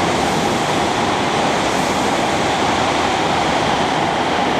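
Hokuriku Shinkansen train running at speed along the track: a loud, steady rushing noise that holds even throughout.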